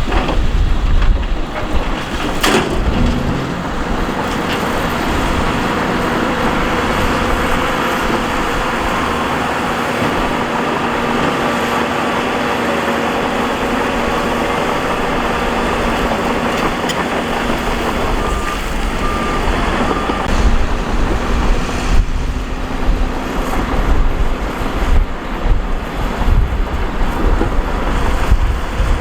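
Heavy diesel earthmoving machinery working, with a steady engine note under a rough rumble of rock and gravel that is loudest at the start and in the last several seconds. Three short high beeps sound about two-thirds of the way through.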